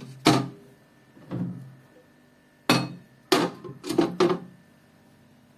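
A series of sharp knocks and clinks of hard objects being handled and set down, bunched together near the end.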